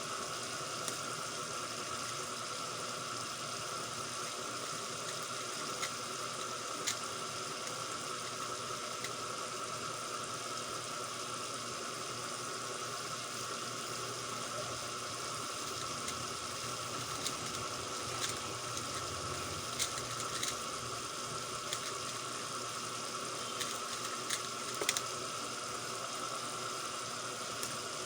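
Steady background hum and hiss, with a few faint, scattered clicks.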